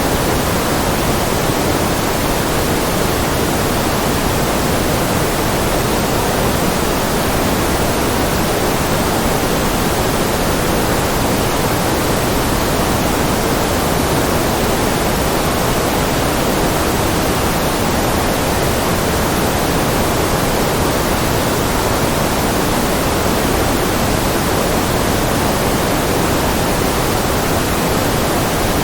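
Steady, even hiss of a generated white-noise track, with no other sound.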